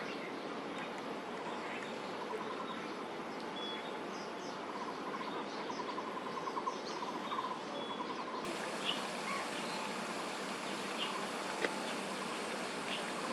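Outdoor park ambience: a steady background hiss with scattered short bird chirps and a fast pulsed trill through the middle. The background changes abruptly about two-thirds of the way through.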